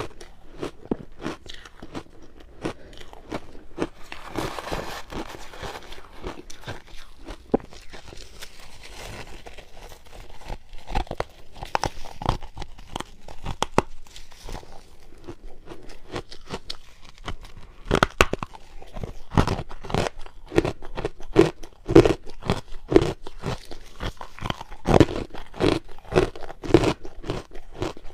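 Close-miked bites and chewing of frozen purple ice, a rapid run of sharp crunches, with stretches of grainy crackling as the ice breaks up a few seconds in. The crunches grow louder and come thicker in the second half.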